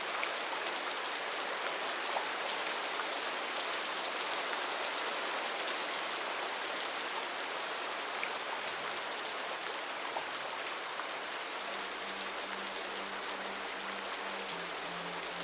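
Steady rain falling on a surface, an even hiss with scattered drop ticks. In the last few seconds a low pulsing music note comes in, stepping down in pitch partway through.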